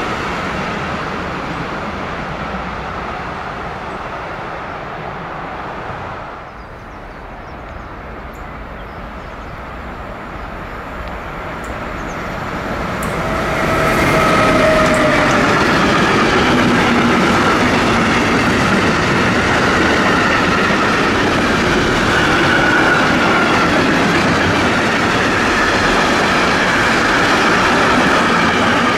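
A freight train's wagons rumble and clatter on the rails and fade off into the distance. From about 13 seconds in, a long electric-locomotive-hauled container freight train passes close by: loud, steady wheel rumble and clickety-clack, with a few brief wheel squeals.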